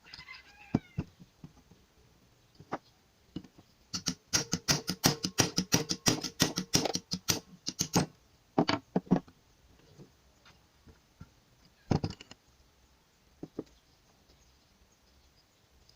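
Clicks and clatter of small metal engine parts being handled as a motorcycle gearbox is dismantled. A dense run of rapid clicks comes from about 4 to 8 seconds in, with single knocks scattered before and after.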